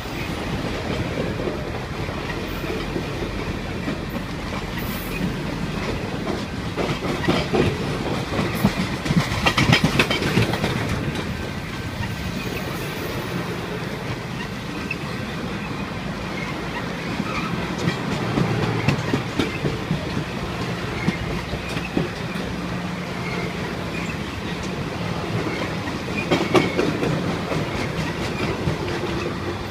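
A long train's cars rolling past, their wheels clattering over the rail joints in a steady clickety-clack. The clatter grows louder for a few seconds about a third of the way in, and again later on.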